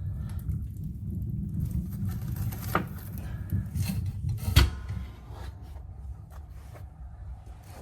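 Low rumble from a wood-burning stove with its door open, with a couple of knocks, the louder one about four and a half seconds in, after which the rumble drops away.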